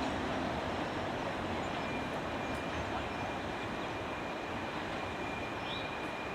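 Train rolling past with a steady rumble of wheels on the rails, easing off slightly. A faint, thin, high steady tone joins about two seconds in.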